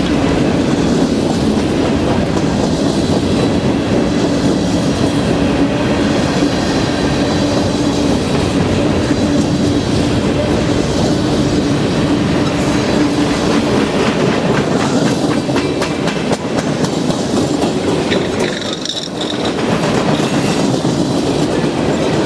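A train's cars rolling past, with wheels clacking over the rail joints and a steady low hum. The sound dips briefly near the end.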